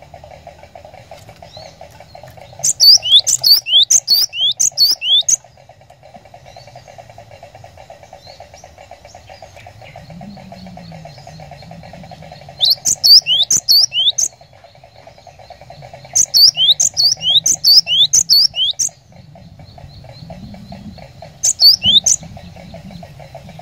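Cinereous tit (glatik batu) singing in four loud bursts of rapid, repeated, sharply sweeping high notes. A steady fainter hum runs underneath.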